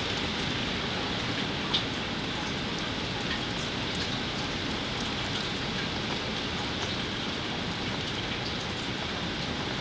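Steady storm rain falling, with scattered sharp drop ticks and one louder tick about two seconds in.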